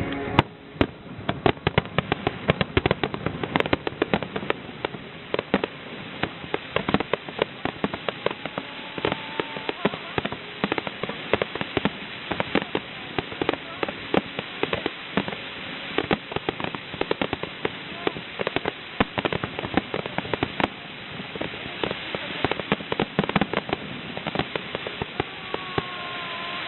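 Fireworks finale: a dense, unbroken barrage of rapid bangs and crackling.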